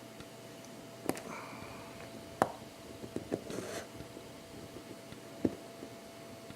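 A few light clicks and taps as small hand tools and multimeter test probes are handled at a watchmaker's bench while a coil block is tested, with a short rustle in the middle and a faint steady hum underneath.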